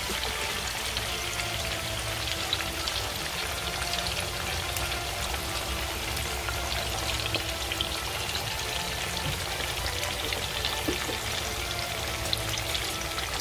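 Raw chicken wings frying in a pan of hot oil just after going in: a steady, dense sizzle of fine crackling and popping bubbles.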